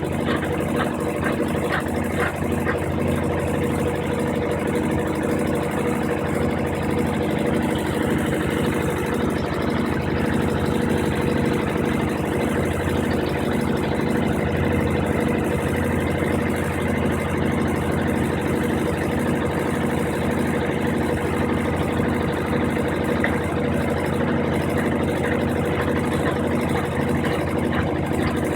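Brastemp 15 kg top-load washing machine running: a steady motor hum with a regular pulse about twice a second.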